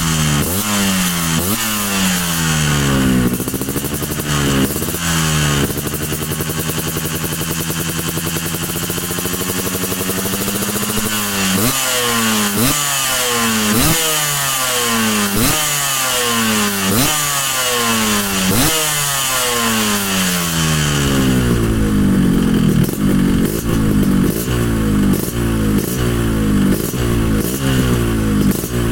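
Yamaha RX-King's two-stroke single-cylinder engine revving through an aftermarket chrome racing expansion-chamber exhaust. It gives repeated sharp throttle blips, about one a second, and one longer rev that climbs slowly for several seconds about a quarter of the way in. Near the end the blips come quicker and closer together.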